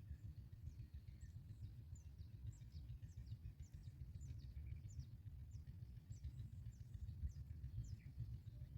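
Small birds chirping faintly: thin, high notes that fall in pitch, one or two a second throughout, over a steady low rumble.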